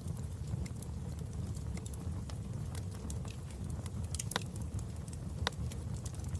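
Wood fire crackling in a fireplace: a steady low rumble of flame with scattered sharp pops, two louder ones in the second half.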